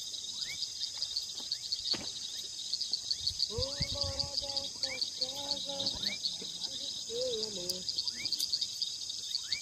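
Steady outdoor chorus of insects such as crickets: a dense, high, pulsing trill that runs on without a break. Short rising chirps repeat every second or so over it, and faint far-off voices talk briefly around the middle and again near the end.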